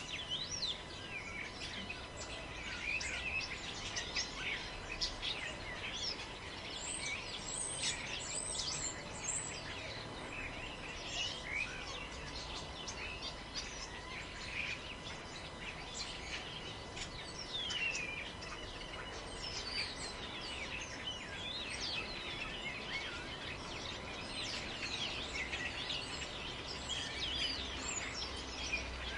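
Many forest birds chirping and calling over one another, with the low rumble of wind underneath.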